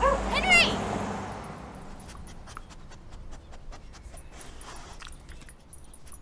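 Small fluffy dog giving a few quick high yips right at the start, then quieter, with faint sniffing and scattered small clicks as it noses the ground.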